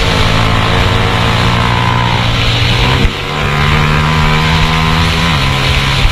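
Onboard sound of a 150 cc motorcycle engine running hard at high revs. Its note holds steady, dips briefly about three seconds in as the pitch steps up, and steps down again near the end, as with gear changes.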